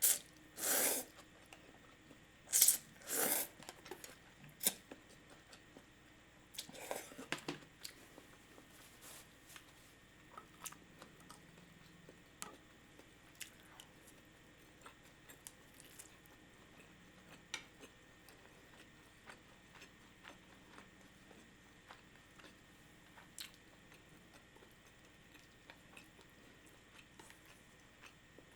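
Close-miked eating of spicy miso ramen: several loud, short slurps and bites in the first eight seconds, then quiet chewing with small mouth clicks.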